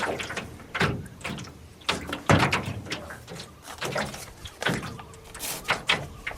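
A paddle working a canoe: a series of irregular splashes and knocks, with the paddle clunking against the hull of an aluminium Grumman canoe.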